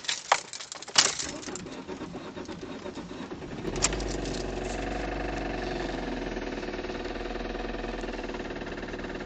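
A few key-like clicks and jingles, then a car engine starting about four seconds in and idling steadily with a clacking noise, which the owner does not know the cause of.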